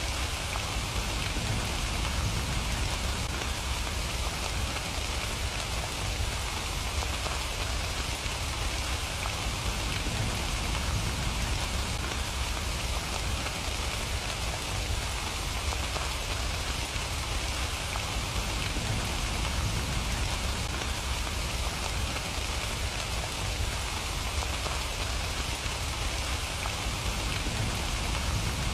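Steady rain falling without letup: an even hiss of drops with a low rumble underneath.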